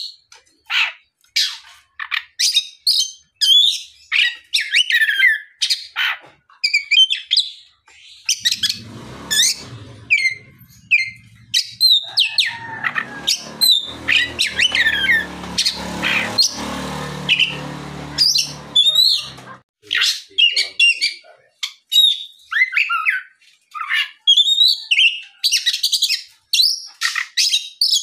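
Oriental magpie-robin singing a fast, varied run of loud whistled phrases and chattering notes. A low rumble sits underneath the song for about ten seconds in the middle.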